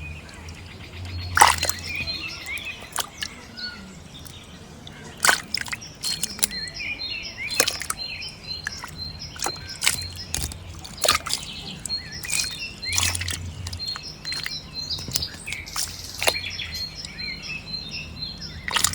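Birds chirping, with sharp sudden clicks or splashes every second or two.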